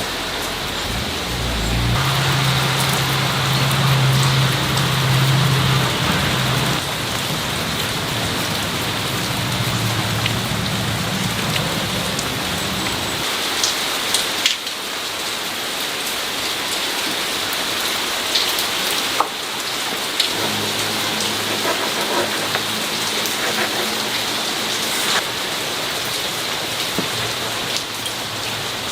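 A steady hiss like falling rain or sizzling. A low hum comes in about two seconds in, stops a little before the middle, and returns later. A few sharp clicks come near the middle.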